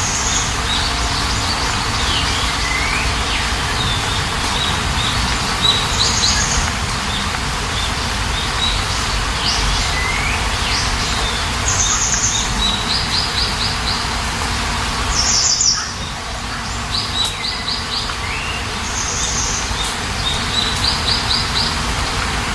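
Songbirds chirping and calling in short repeated phrases every few seconds, some as quick trills and some as downward-sweeping notes. Underneath runs a steady hiss of rain.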